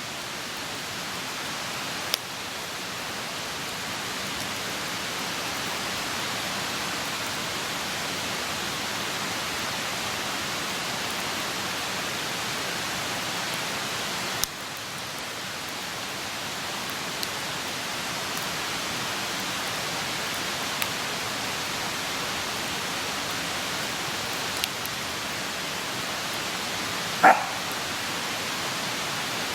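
Wood campfire burning with a steady hiss and occasional sharp crackles a few seconds apart. Near the end comes one brief, louder sound with a pitch to it.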